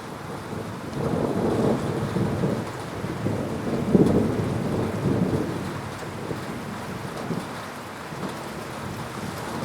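Thunder rolling over steady heavy rain: a long low rumble builds about a second in, peaks a few seconds later and fades away, and another rumble begins near the end.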